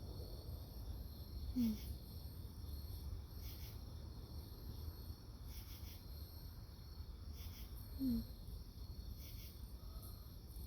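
Crickets chirping steadily over a low hum. Two brief low vocal sounds come through, one shortly after the start and one about three-quarters of the way in.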